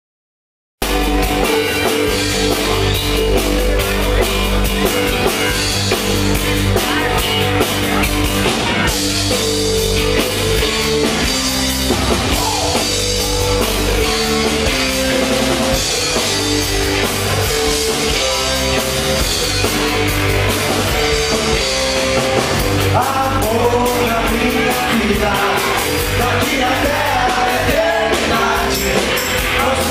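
A rock band playing live, with drum kit, bass and electric guitar and a voice singing. It cuts in abruptly a second in after a moment of silence.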